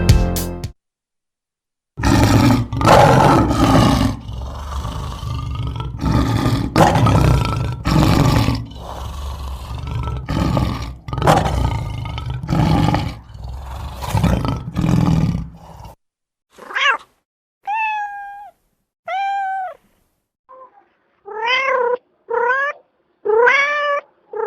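A lion roaring: a long series of loud, rough roars and grunts that come quicker and shorter toward the end. About sixteen seconds in, a domestic cat starts meowing, with about eight separate meows that come closer together near the end.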